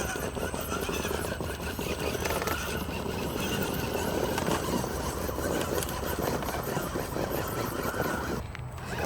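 SCX10 scale RC crawler's electric motor and gear drive whining as it crawls, with steady crackling of tires and chassis working over the course.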